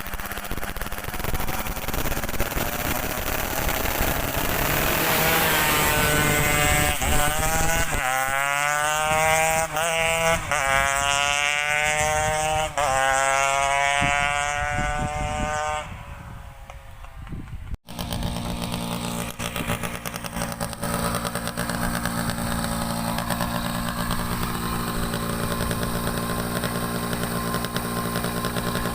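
Yamaha F1ZR two-stroke moped engine, bored to 116 cc, being revved repeatedly with the pitch climbing on each rev. After a break it settles into steady running. The bike is being tuned to cure an engine problem.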